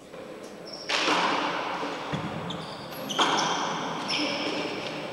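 Handball rally in a four-wall court: two sharp smacks of the ball, about a second in and again about two seconds later, each echoing in the enclosed court, with short sneaker squeaks on the court floor.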